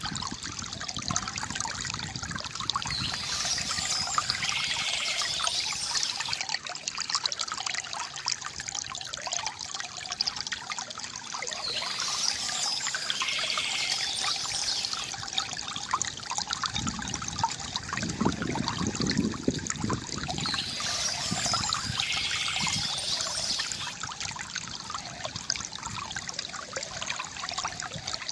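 Water trickling and splashing steadily from a bamboo fountain into its basin, with a fuller gurgle about two-thirds of the way through. Birds chirp over it in short bursts about every nine seconds.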